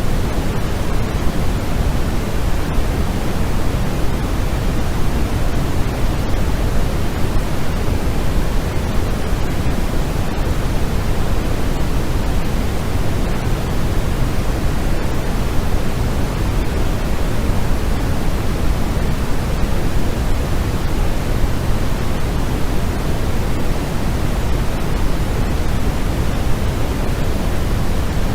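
Steady white-noise track: an even, unchanging rushing noise that is fuller in the low end than a bright hiss.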